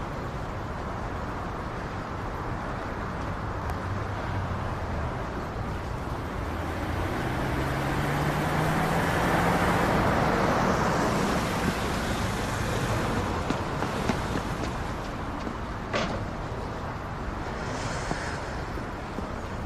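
Street traffic noise, with a vehicle passing: its engine hum rises in pitch and the sound grows loudest about halfway through, then fades. A sharp click comes near the end.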